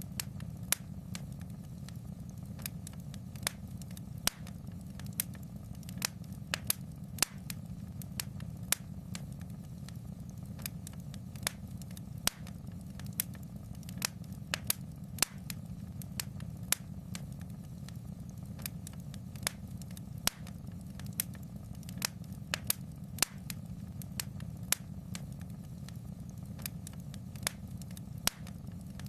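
Wood fire in a fireplace crackling: irregular sharp pops and snaps, one or two a second, over a steady low rumble of the flames.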